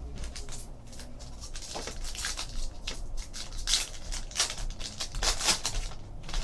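Baseball trading cards being handled: cards sliding and flicking against each other, with sharper rustles and scrapes several times.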